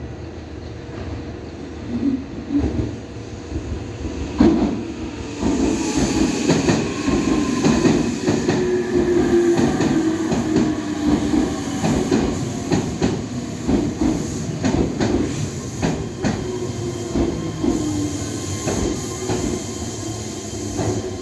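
Electric express train pulling into the station: wheels clacking over rail joints with a heavy rumble, while the motor whine slides slowly down in pitch as it brakes to a stop.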